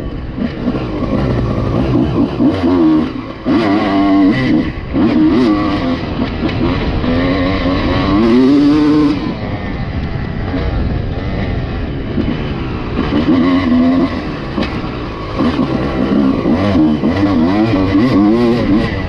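Honda CR250 single-cylinder two-stroke motocross bike engine revving hard and backing off again and again, its pitch rising and falling with the throttle.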